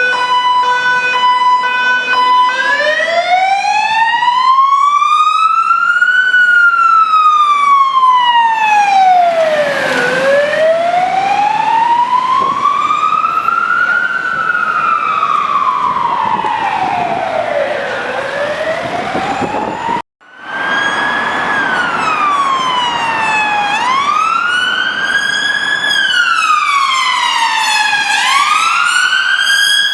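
Emergency-vehicle siren on the London Fire Brigade Fire Rescue Unit: a steady hi-lo two-tone, then about two seconds in a slow wail rising and falling over several seconds. About two-thirds of the way through it cuts to a different siren, on an ambulance-service Skoda Superb, wailing in quicker rising and falling sweeps.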